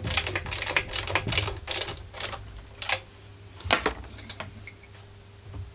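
Ratchet wrench clicking in a quick run of strokes, about four or five a second, then slowing to a few separate clicks, the sharpest a little under four seconds in.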